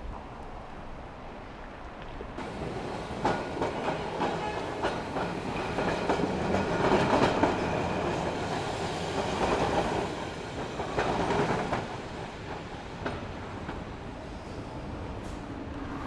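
A train rolling past with its wheels clicking over rail joints, building up, loudest in the middle, then easing off.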